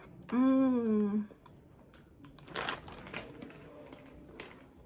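A drawn-out 'mmm' of enjoyment hummed through closed lips for about a second, followed by the crisp crunching of popcorn being chewed.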